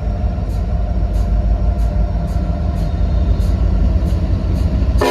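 Norfolk Southern diesel locomotives running loud and steady as the train approaches, a low rumble with faint high ticks about twice a second.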